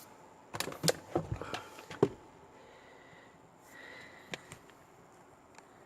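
A few light plastic clicks and knocks, mostly in the first two seconds and one more near the middle, as the unlatched cabin-filter access cover behind the glove box is handled.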